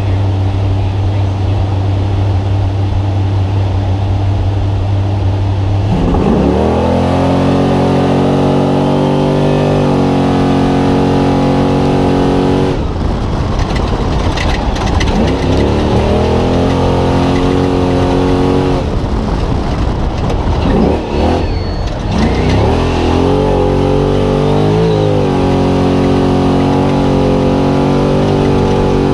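Spec Trophy Truck's V8 engine idling steadily, then about six seconds in pulling away hard. It revs up through several upshifts, its pitch climbing and dropping back at each gear change.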